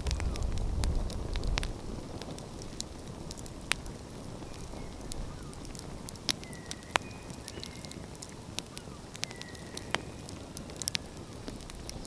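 Wood fire crackling, with sharp pops scattered irregularly throughout. A low rumble fades away in the first two seconds.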